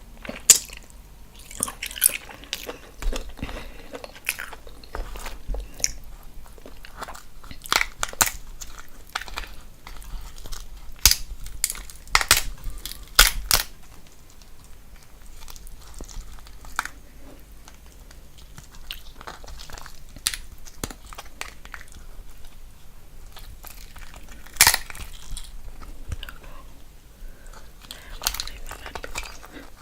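Close-miked chewing and eating of a seafood boil, with irregular sharp clicks and crunches.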